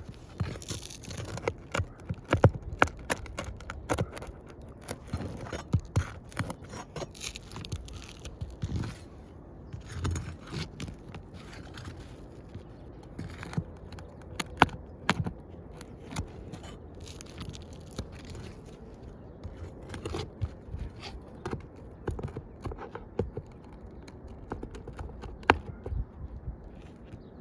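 Irregular scraping and rustling with many sharp, uneven clicks and knocks.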